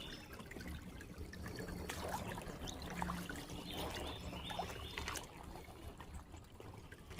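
Shallow creek water trickling, with a few faint clicks scattered through it.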